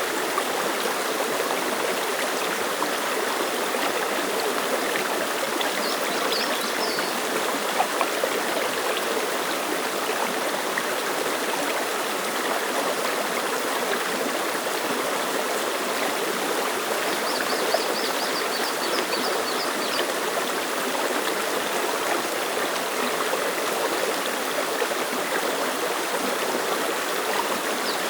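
Clear mountain stream flowing and splashing over rocks, a steady, unbroken babbling rush of water.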